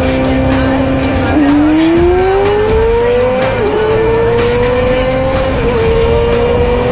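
Motorcycle engine accelerating hard through the gears. Its whine holds steady, then climbs in pitch from about a second and a half in, dropping back at upshifts about three and a half and five and a half seconds in before climbing again.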